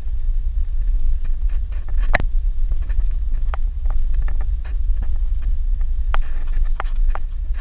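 Suzuki Jimny driving on a dirt road: a steady low rumble with scattered knocks and rattles, one sharper knock about two seconds in.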